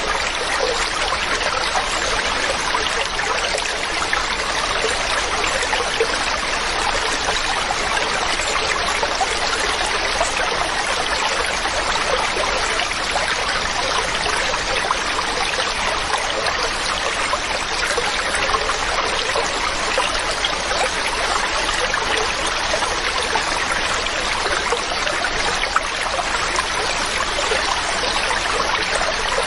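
A mountain stream running steadily over rocks, an even rushing and trickling of water.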